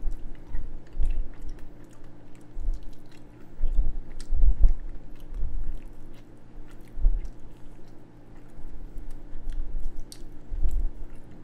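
A man biting into and chewing a barbecue-glazed chicken wing, in irregular chews and bites about once a second.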